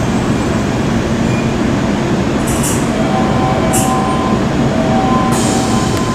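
Electric commuter trains running through a station, one pulling out on a curve as another pulls in, with steady rolling noise. Short high hisses come about two and a half, four and five and a half seconds in, and thin high tones come and go from about three seconds in.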